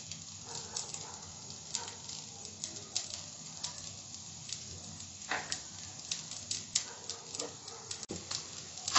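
Rice frying in oil in a kadai over a gas flame, sizzling with a steady patter of small irregular crackles and an occasional sharper pop.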